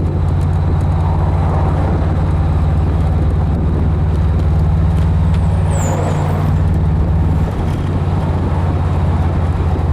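Air-cooled flat-four engine of a VW Beetle Cabriolet running steadily at cruising speed, with a low hum and road noise; the sound dips briefly about seven and a half seconds in.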